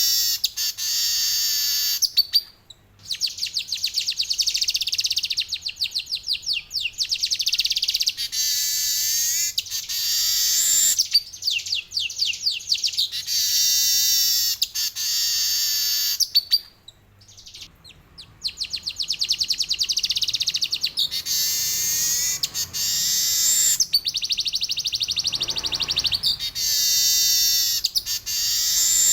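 Male manyar (weaver bird) singing in long, fast, buzzy trills, interspersed with short wheezy phrases that sweep downward. The song breaks off briefly about three seconds in and again about seventeen seconds in.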